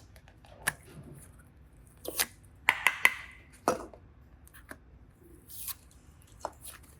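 Hands working slime and clay close to the microphone: a string of short clicks and taps with brief sticky squishes, a quick cluster of sharper clicks about three seconds in.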